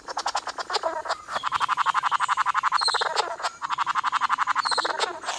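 Male bowerbird's courtship call: a fast, rattling train of pulses, given in two long bouts with a short break about three seconds in.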